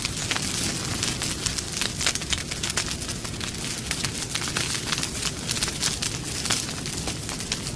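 Campfire crackling: frequent sharp pops and snaps over a steady hiss and low rumble of burning wood.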